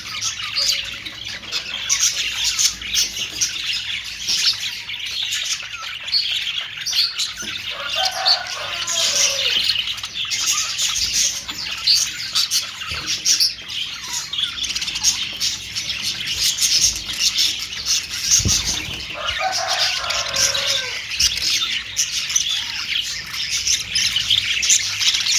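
A flock of budgerigars (Australian parrots) chirping and chattering continuously. Lower-pitched squawking calls come twice, about eight and about nineteen seconds in.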